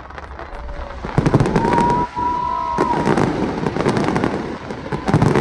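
Fireworks display: heavy booming bursts about a second in, near three seconds and again near the end, over continuous crackling, with a high whistling tone from about a second and a half to three seconds in.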